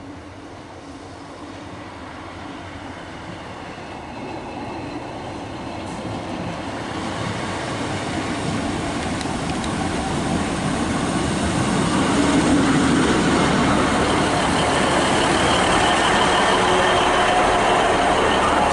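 Class 153 single-car diesel multiple unit approaching and arriving at a station, its rumble growing steadily louder over about twelve seconds and then holding close by. Faint squealing tones come in near the end.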